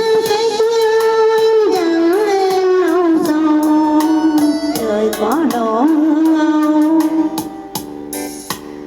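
A song with a solo voice singing long held notes with vibrato over instrumental accompaniment. The voice stops about seven seconds in, leaving the accompaniment alone.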